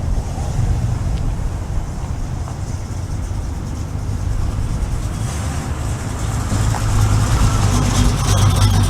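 Car running with a steady low engine rumble and road noise, getting louder about seven seconds in.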